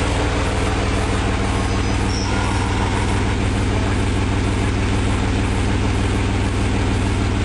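Chevy Astro van's 4.3-litre V6 idling steadily while warming up from a cold start.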